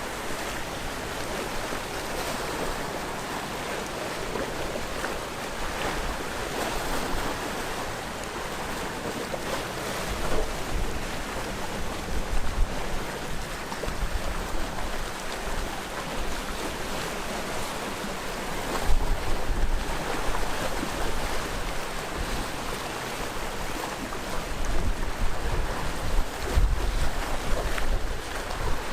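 Sea waves washing steadily against the shore. Gusts of wind buffet the microphone with a low rumble several times, most strongly about a third of the way in, two-thirds of the way in, and near the end.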